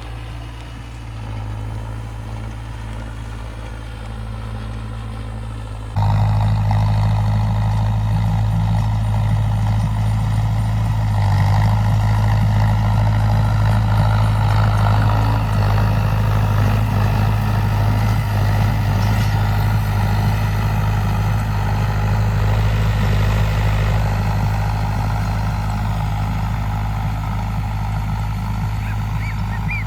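Mahindra Arjun Novo 605 DI tractor's diesel engine running steadily, with a low, even engine note. About six seconds in it abruptly becomes louder and fuller, then holds steady.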